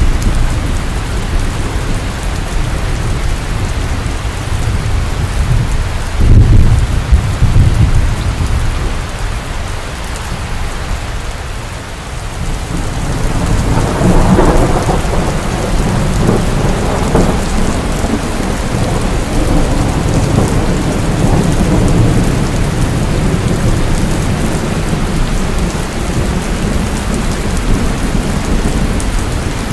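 Steady heavy rain with thunder. A deep rumble comes about six seconds in, and a longer rolling peal starts around halfway and keeps going.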